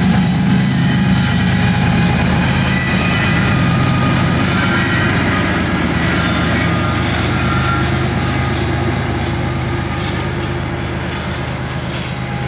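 Union Pacific diesel freight locomotive rumbling as a freight train of tank cars rolls past, with several high-pitched steel wheel squeals over the first seven seconds or so. The squeals then fade and the whole sound slowly grows quieter as the train draws away.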